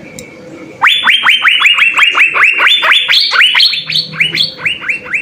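Asian fairy-bluebird (cucak biru) singing: after a quiet second, a loud fast run of short whistled notes, about six a second, each sweeping sharply upward.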